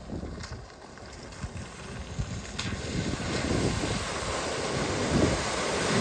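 Wind buffeting the microphone: an uneven, gusty rumble with a hiss above it, growing louder from about two seconds in.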